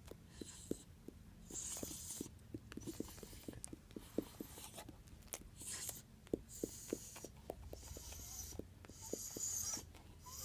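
Fingers scratching a pet's fur. Faint rasping strokes come and go every second or so, with small clicks among them.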